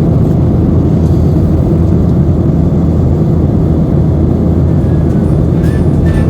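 Airliner cabin noise: a loud, steady low roar of jet engines and rushing air.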